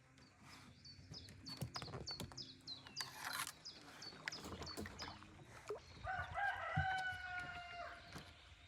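A rooster crows once, a long call of about two seconds near the end. Before it, a small bird repeats a short, high, falling note about three times a second, with a brief rushing noise about three seconds in.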